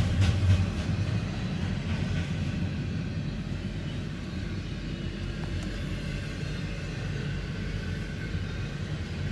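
Double-stack intermodal freight train rolling by: a steady rumble of steel wheels on the rails and railcars passing, with a short run of rhythmic clicks in the first second.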